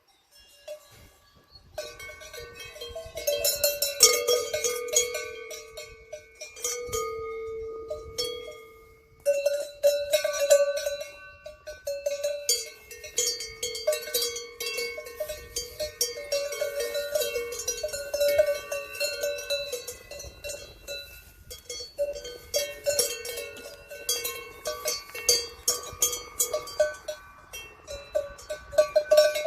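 Several cowbells of different pitches clanking irregularly and ringing on, worn by cattle as they move about at pasture; the clanking starts about two seconds in.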